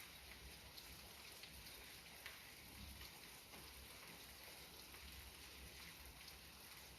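Gentle rain falling, a faint steady patter with scattered individual drop ticks.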